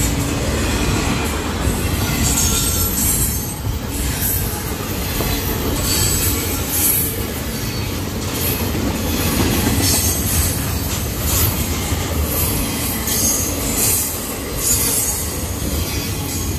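CN double-stack intermodal freight train rolling past, its steel wheels rumbling steadily on the rails, with high-pitched wheel squeal coming and going every few seconds.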